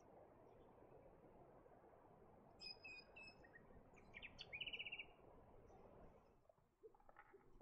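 Faint bird calls: a few short high chirps about two and a half seconds in, then a quick high trill about two seconds later. Under them runs a low, steady outdoor background noise that fades near the end.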